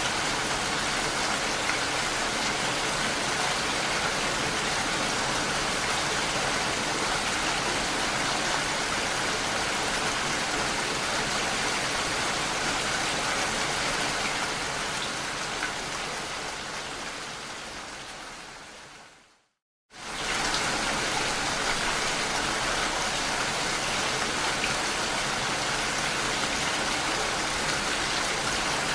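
Steady rain falling, an even hiss. About two-thirds of the way through it fades out over a few seconds to a moment of silence, then cuts straight back in at full level.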